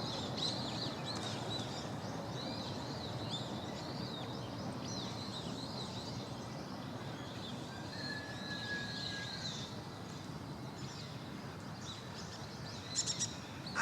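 Small birds chirping and twittering in quick, high calls over a steady outdoor background hiss, with one short whistle about eight seconds in.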